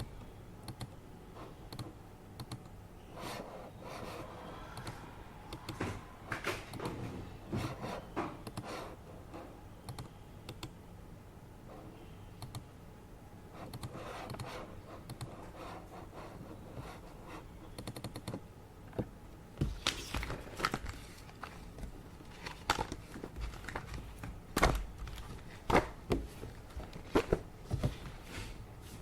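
Office desk work: irregular computer keyboard typing and clicks, with stretches of paper rustling, over the steady background hum of an air purifier. Sharper, louder knocks come in the last third.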